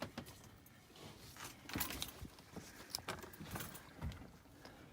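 Light handling noises: a few scattered clicks, taps and small rattles, the clearest about two seconds in and again near four seconds.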